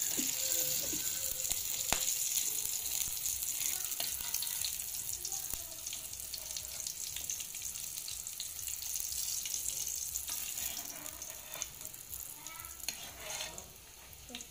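Garlic frying in hot oil in a large wok, a steady sizzle that dies down over the last few seconds. A single sharp click about two seconds in.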